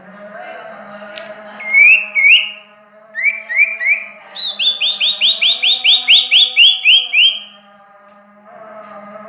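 Songbird singing: a few rising whistled notes, then a fast run of about a dozen rising notes in the middle, over a steady low hum.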